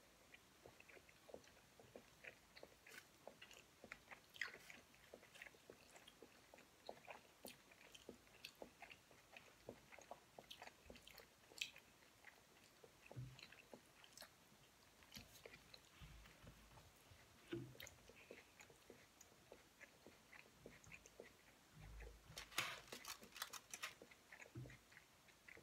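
Faint close-miked mouth sounds of sushi rolls being chewed: soft wet clicks and smacks scattered throughout. A short, denser run of crackling clicks comes about three-quarters of the way through and is the loudest moment.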